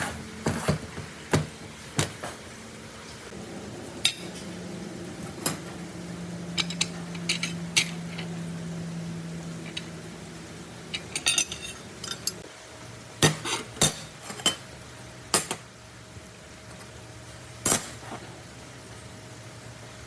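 Irregular metallic clinks and taps, some in quick clusters, from metal pieces being handled and struck. A steady low machine hum runs underneath and shifts to a lower pitch about twelve seconds in.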